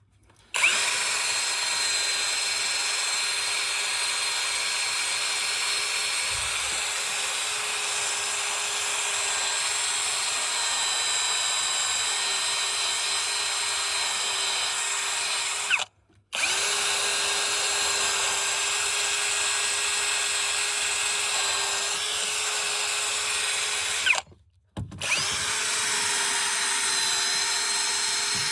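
A handheld power tool's electric motor running at a steady speed with a steady whine, in three long runs broken by two short stops, one about 16 seconds in and one about 24 seconds in.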